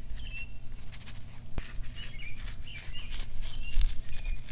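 Songbirds chirping in short repeated phrases. A sharp click comes a little over a second in, followed by a run of light crackling and rustling.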